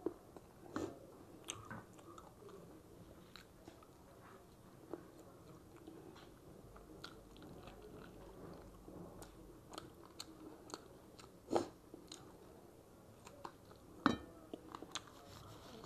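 A person chewing and biting into chicken held by hand, close up: wet mouth clicks and smacks with some crunching, and two sharper clicks about two-thirds of the way through and near the end.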